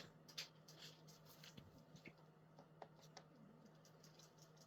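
Near silence: room tone with a faint steady hum and scattered faint ticks and scratches.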